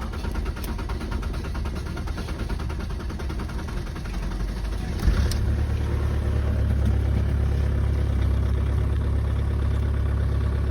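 2002 VW Passat 1.9 TDI diesel engine cold-starting at −14 °C. About five seconds in there is a short sharp sound, and after it the engine note turns heavier and steadier.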